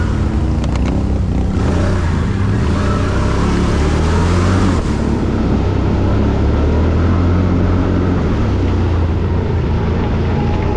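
Quad bike (ATV) engine running under way, a steady low engine note whose pitch shifts a little with the throttle.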